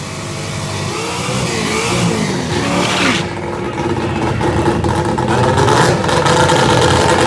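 Mazda RX-7's three-rotor rotary engine revving. Its note wavers up and down in pitch for the first few seconds, dips briefly, then settles into a steady, loud run from about four seconds in.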